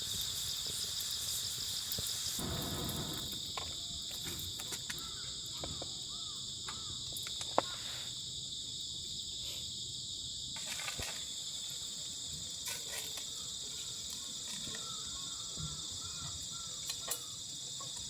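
Crickets and other insects chirping in a steady, high-pitched chorus, with scattered small clicks and one sharp snap about halfway through.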